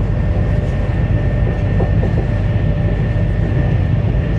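Interior running noise of a CRH1A-A high-speed electric multiple unit: a steady low rumble, with a thin steady whine coming up about a second and a half in.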